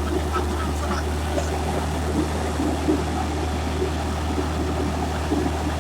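Truck engine running with a steady low drone under even road and engine noise.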